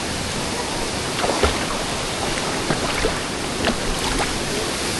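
Waterfall rushing steadily into a pool, with a few brief splashes in the water.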